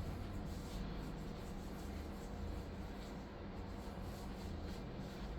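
Quiet room tone: a faint steady hum with light rubbing or handling noises.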